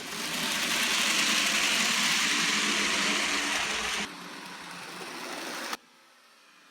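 N gauge Graham Farish WD Austerity 2-8-0 model locomotive running with its coaches, its small coreless motor humming and the wheels rattling on the track. It is loud for the first four seconds, drops to a quieter run, and cuts off suddenly nearly six seconds in.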